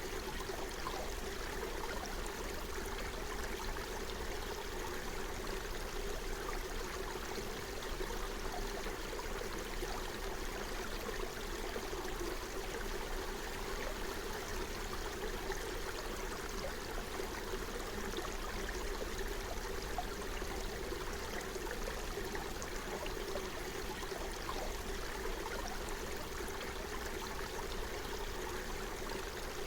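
Forest stream flowing over stones: a steady, even burble and rush of running water.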